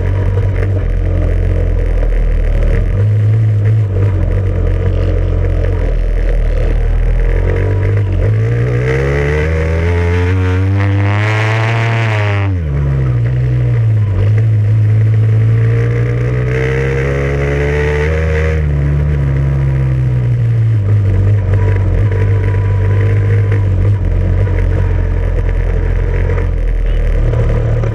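An off-road vehicle's engine running steadily, then revving up twice: the pitch climbs from about 8 seconds in to a peak near 12 seconds and falls away, then climbs again from about 14 seconds and drops back to a steady run after about 20 seconds.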